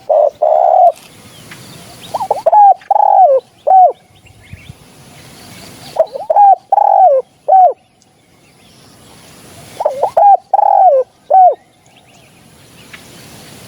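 Spotted dove cooing: a short coo right at the start, then three repeated phrases of several rising-and-falling coos about four seconds apart. Faint chirps of small birds can be heard between the phrases.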